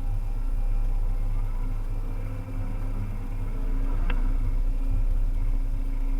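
Volvo EC300EL excavator's diesel engine running steadily, with a short click about four seconds in.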